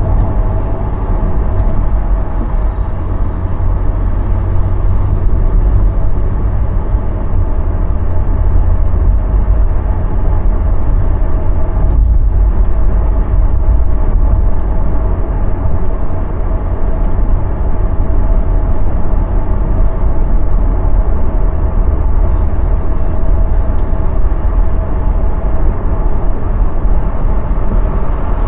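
Steady low rumble of a car being driven, road and running noise with a faint steady hum above it, holding an even pace.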